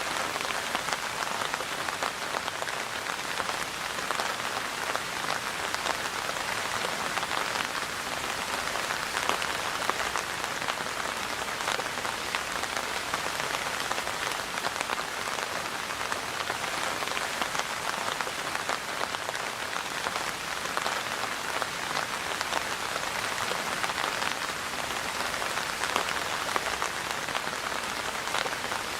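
Steady rain falling on a surface, an even hiss thick with the patter of many drops.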